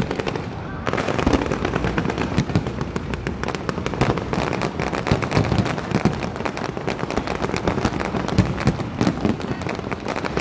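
Aerial fireworks display: many shells bursting in a dense, rapid string of bangs and crackles. It picks up after a brief lull about a second in.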